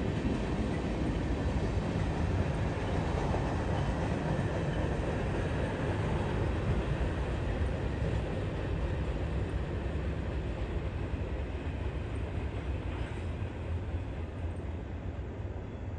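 Freight train cars rolling along the track, a steady noise of wheels on rail that slowly fades in the second half as the end of the train moves away.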